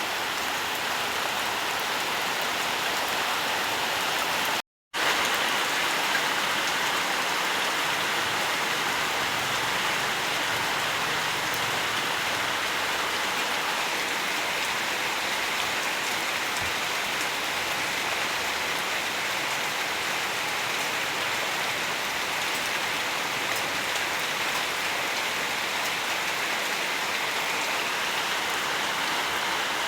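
Steady rainfall: an even hiss of many drops pattering on surfaces. About five seconds in, it cuts out to silence for a fraction of a second and then resumes.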